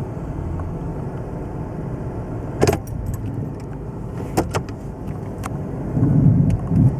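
Pickup truck engine and road noise heard from inside the cab as it pulls away in first gear after a cold start. The freshly rebuilt automatic transmission has not yet upshifted. A few light clicks sound in the middle, and the engine gets louder near the end.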